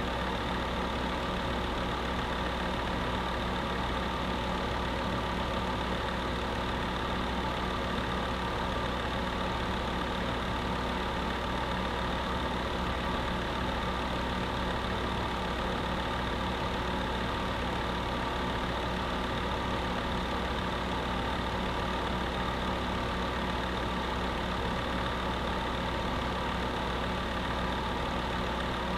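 Electric space heater running steadily: a constant motor hum with several steady tones over an even rushing noise.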